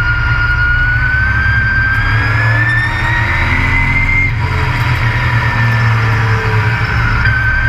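Race truck engine heard from on board, running loud under load, with a whine that climbs steadily in pitch for about four seconds, breaks off, and starts climbing again from a lower pitch near the end.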